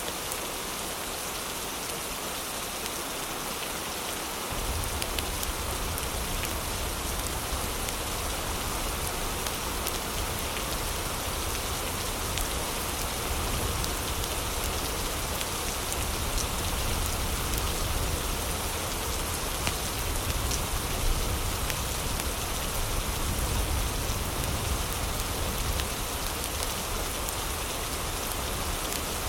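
Heavy rain falling steadily in a dense, even hiss, with a low rumble joining it about four seconds in and continuing.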